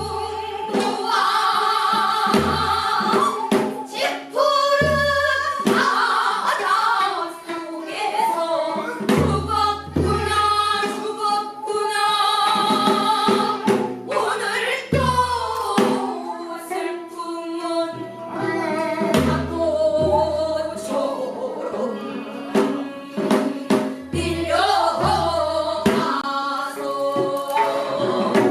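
Korean pansori-style singing by a group of voices, accompanied by traditional instruments, with low drum strokes from the buk recurring throughout.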